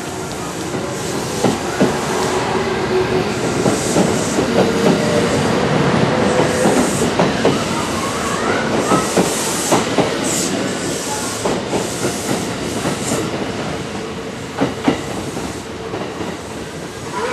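Kintetsu 20000 series 'Raku' electric train running past along the platform, its wheels clacking over rail joints with a few brief squeals, over a steady hum.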